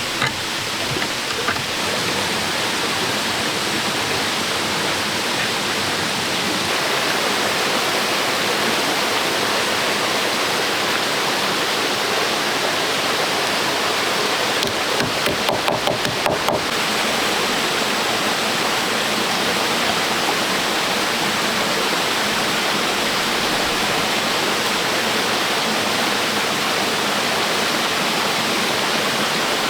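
Steady rushing water noise, with a quick run of about eight taps or knocks about halfway through.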